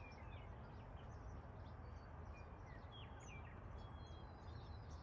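Faint outdoor ambience: small birds chirping at a distance, many short high chirps and whistles scattered throughout, over a steady low rumble.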